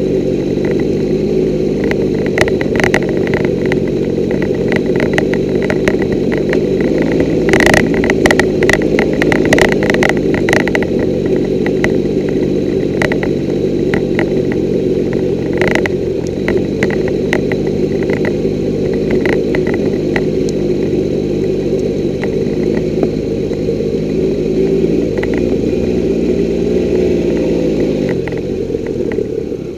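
Triumph Tiger 1200's three-cylinder engine running steadily at low speed, picked up by a camera mounted on the bike. A run of sharp clicks and rattles comes about a quarter of the way in, and near the end the engine note drops as the bike slows.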